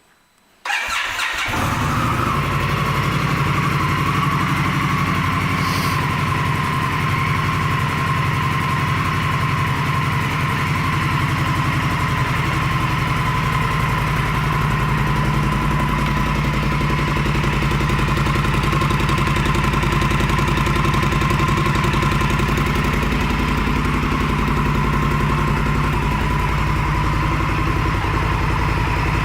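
2016 Indian Scout's 1133 cc liquid-cooled V-twin starting up about a second in, then idling steadily.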